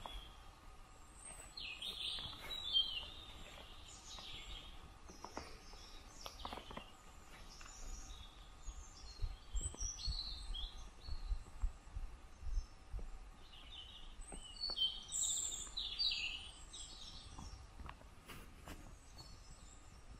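Songbirds singing in several short, quick phrases with pauses between, the busiest bursts about two seconds in and again near three-quarters through.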